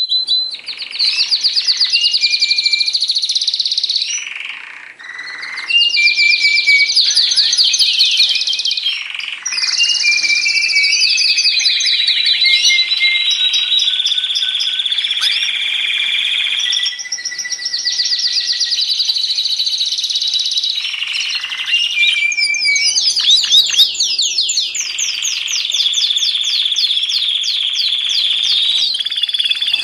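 Domestic canary singing loud, continuous song of fast trills, rapid repeated notes and long held whistles, in long phrases with brief pauses; a canary lure song for getting a silent canary singing again.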